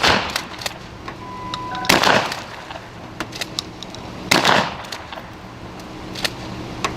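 Less-lethal beanbag shotgun rounds fired at a car's windows: three loud shots about two seconds apart, each with a short smear after it. A brief electronic beep sounds just before the second shot.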